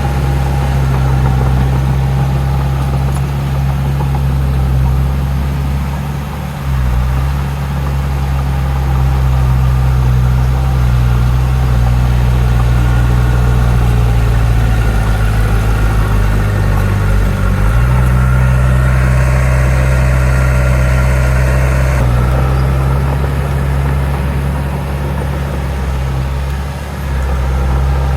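Heavy diesel engine of earthmoving equipment running with a steady deep drone. Its note changes briefly about six or seven seconds in and again between about fifteen and eighteen seconds.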